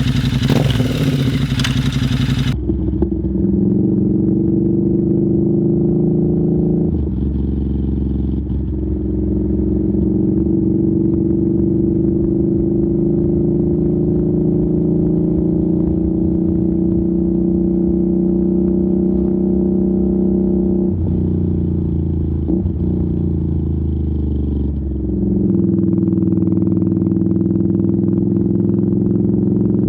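Royal Enfield Interceptor 650's parallel-twin engine through a Zard exhaust, running steadily under way. Its note shifts abruptly a few times as the revs change, and a broad rushing noise sits over it for the first couple of seconds.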